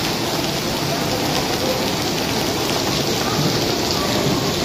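Heavy rain falling steadily and splashing on a wet paved floor.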